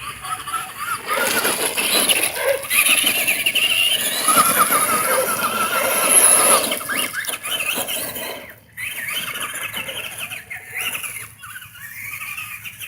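Electric motor of a battery-powered RC race car whining, its pitch rising and falling as the throttle is worked, with a brief drop-off about two-thirds of the way through.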